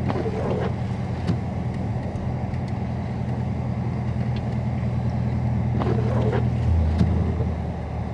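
Dodge Charger Scat Pack's 392 (6.4-litre) Hemi V8 running at low speed, heard from inside the cabin while driving in snow. Its steady drone drops in pitch about seven seconds in, and two brief swishing sounds come near the start and about six seconds in.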